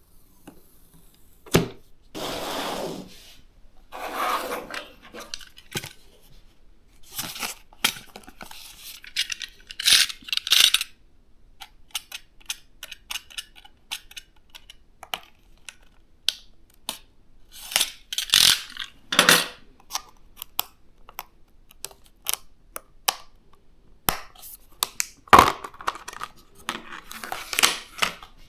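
DDR5 RAM sticks and their plastic packaging being handled: short bursts of rustling mixed with many sharp clicks and taps.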